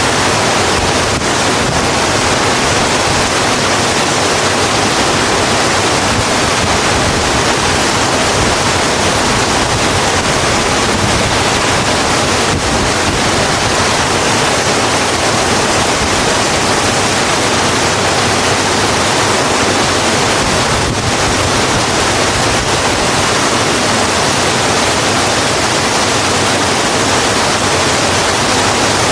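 Steady heavy rain falling on a road, a dense even hiss with no let-up.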